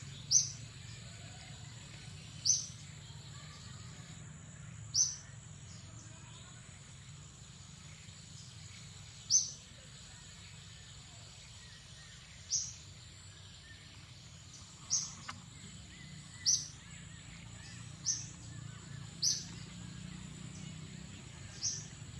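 A bird chirping: short, high, falling single chirps repeated about ten times at uneven intervals of one to four seconds.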